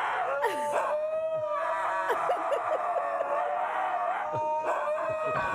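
Huskies howling together: long, wavering held notes that overlap and slide in pitch.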